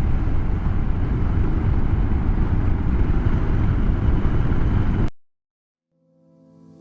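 Motorcycle running on the road, its engine mixed with heavy low wind rumble on the rider's microphone. The sound cuts off abruptly about five seconds in. Soft mallet-percussion music fades in near the end.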